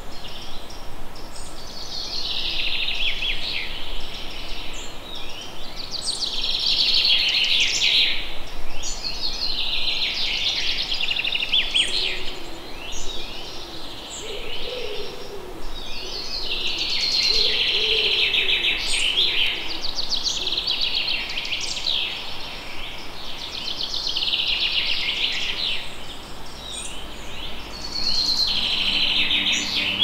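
A songbird singing short, high, trilled phrases that fall in pitch, repeated over and over a few seconds apart.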